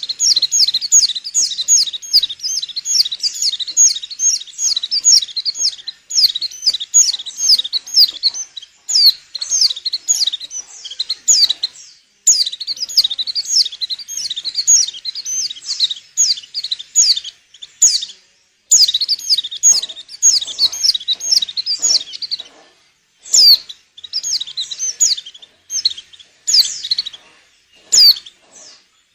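A female white-eye (pleci) in breeding condition calls in fast strings of high chirps and trills. The phrases last several seconds and are broken by short pauses. This is the call bird-keepers use to stir males into singing and to lure them.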